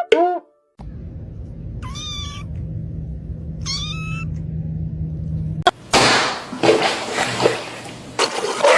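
Domestic cat meowing: two drawn-out meows, each rising then falling in pitch, about two seconds apart over a low steady hum. Near the end comes a louder stretch of rough noise.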